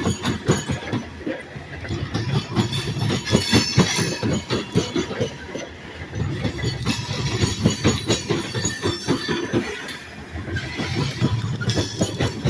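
Cars of a long train rolling past, wheels clattering rapidly and unevenly over the rail joints with a continuous rattle and rumble.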